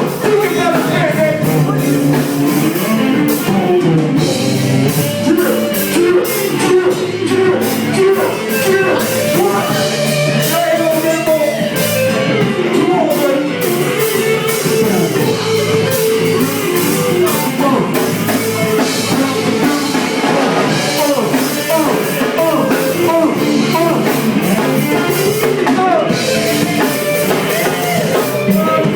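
Live band jam: electric guitar, bass guitar and drum kit playing a rock groove, with some wordless vocal sound mixed in.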